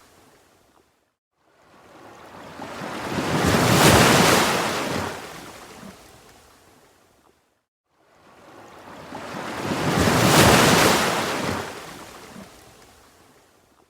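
Ocean waves washing in, two slow surges in a regular rhythm: each one builds to a loud wash of surf, then fades away almost to nothing before the next.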